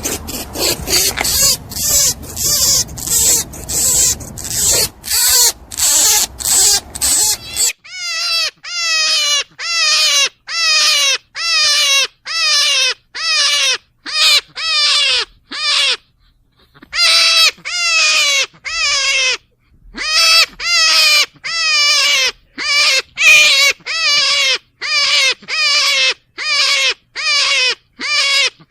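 Rabbit vocal sounds. First a fast run of short noisy puffs, about three a second. Then, after an abrupt change a third of the way in, a steady series of short cries, each falling in pitch, about two a second.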